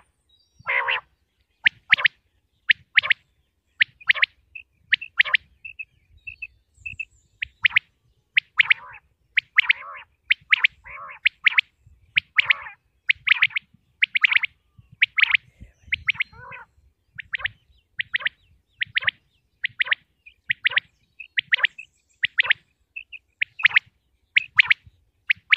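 Common quail calling: short, sharp notes repeated about one to two a second, some in quick pairs or runs, with complete quiet between them.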